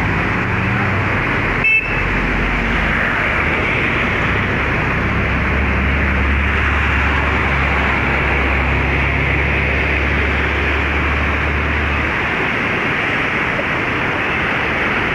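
Swollen river in flood, its fast water rushing steadily. A low engine hum runs underneath until about twelve seconds in, and a brief toot sounds about two seconds in.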